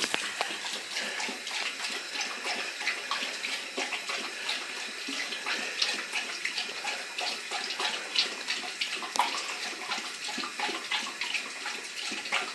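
Bathroom sink faucet running steadily into the basin, a constant hiss of water with irregular small splashes and drips.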